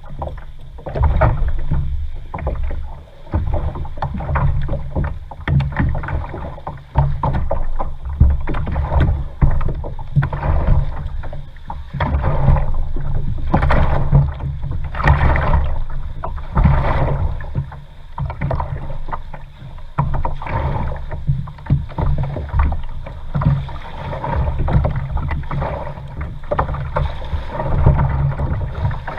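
Kayak being paddled: irregular water splashes and sloshing from the paddle and hull, over a heavy, uneven low rumble.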